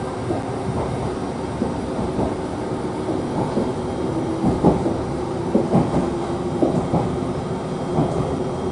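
Train running along its track: a steady hum with irregular short clicks throughout.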